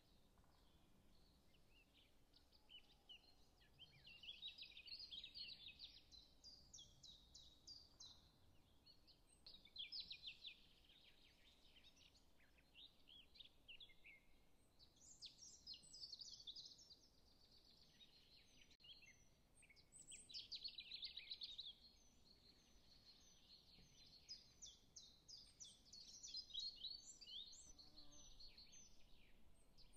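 Faint chirping and twittering of small birds, coming and going in bouts of quick chirps.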